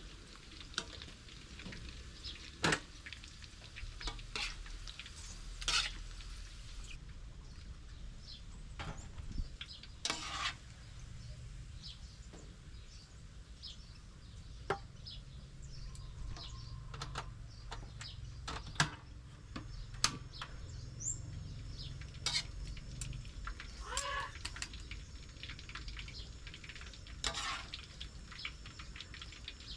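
Kitchen cooking sounds: scattered clicks and knocks of utensils against pots and pans, some ringing briefly, over a faint steady frying sizzle.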